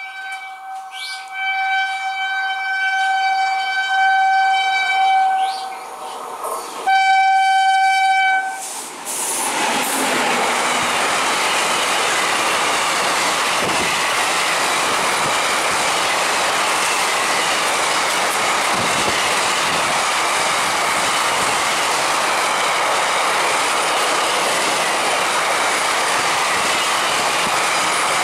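Indian Railways WAG9 electric locomotive sounding its horn in one long blast and then a shorter one, then the locomotive and its loaded container wagons running through at speed, wheels clattering over the rail joints in a steady loud rush.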